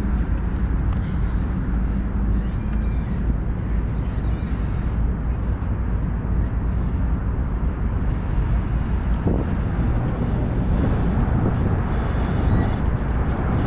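Steady low rumble of outdoor city background noise, with vehicle engines running in it and a faint steady hum during the first few seconds.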